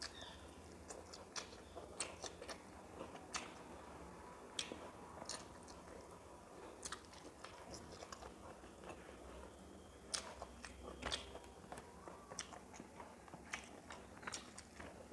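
Faint chewing and biting of fried fish and rice eaten by hand, with scattered short sharp mouth clicks.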